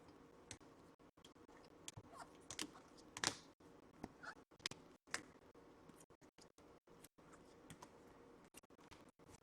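Faint, scattered clicks and light rustles of trading cards being handled and laid out, with one louder click about three seconds in.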